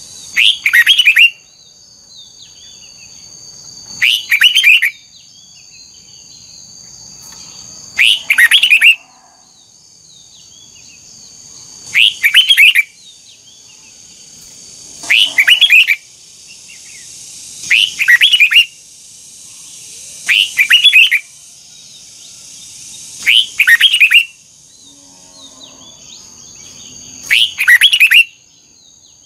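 Red-whiskered bulbul singing: eight short, loud song phrases of about a second each, repeated every three to four seconds, each with a two-part rise. A steady high-pitched whine runs beneath.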